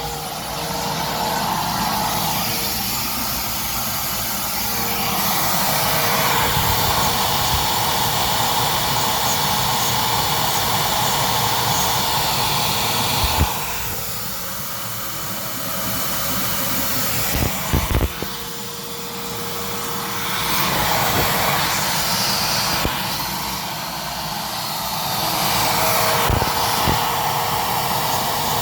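CNC machine running as it mills Delrin blocks: a continuous rushing noise with a steady hum. It grows louder and eases off every few seconds as the cutter moves through the cut, with a few sharp clicks about halfway through.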